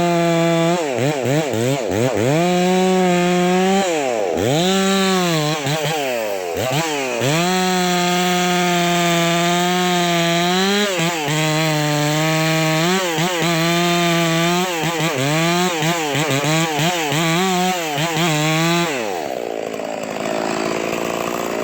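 Two-stroke chainsaw running at full throttle in a cut, its revs dipping and recovering several times as the chain loads. Near the end it drops back toward idle.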